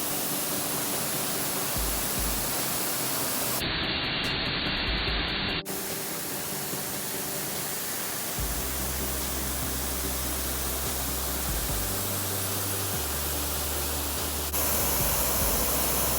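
Waterfall's falling water, a steady rushing hiss that changes abruptly in tone a few times.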